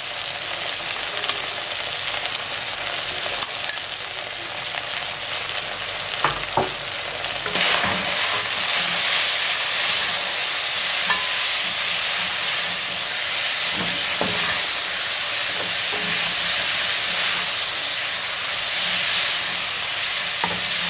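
Beef, onions and pilau masala frying in a pot, sizzling as a wooden spoon stirs and scrapes them. The sizzle gets louder about seven seconds in and stays steady after that.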